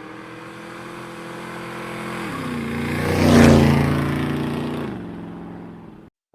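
Motorcycle engine passing by: it grows louder, peaks about halfway through, drops in pitch as it goes past and fades away, then cuts off suddenly near the end.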